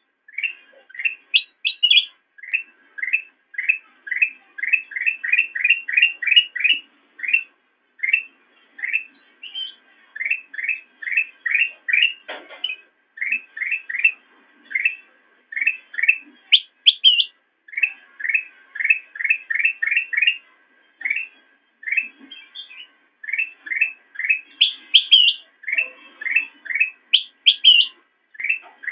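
Kutilang emas, a bulbul, singing a long run of short rising chirps, about two to four a second, broken now and then by higher whistled notes.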